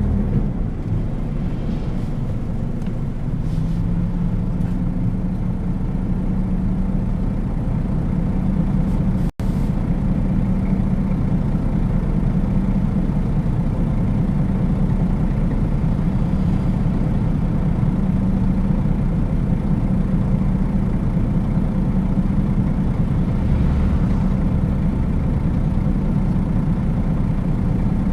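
A Nissan Diesel KL-UA452KAN city bus's diesel engine and drivetrain running steadily on the move, heard from inside the cabin. The sound cuts out for an instant about nine seconds in.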